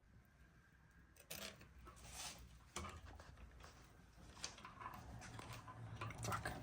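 Faint handling sounds of metal bicycle parts and tools: scattered clicks and clinks, with a few sharper knocks about a second and a half in, near three seconds and halfway through.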